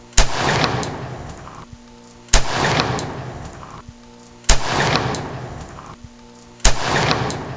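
Four rifle shots fired about two seconds apart, each followed by a long echo that rolls away and fades.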